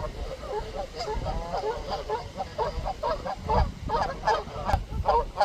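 A large flock of ducks quacking, many short calls overlapping one after another.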